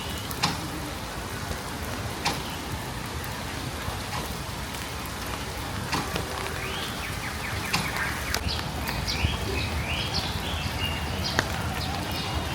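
Steady rain falling, with scattered louder drips. From about halfway in, a bird calls in a run of short, rising chirps.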